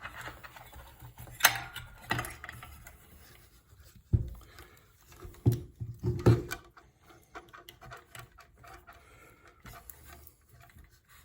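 Handling noises as a new headlight is fitted and its plug connected: scattered clicks and knocks, with several sharper knocks in the first two-thirds.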